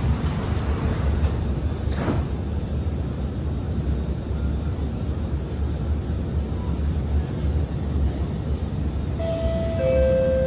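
SMRT R151 train pulling away from the platform, heard from inside the carriage: a steady low rumble of the traction motors and running gear, with a single clunk about two seconds in. Near the end a two-note falling chime sounds, the cue for the onboard station announcement.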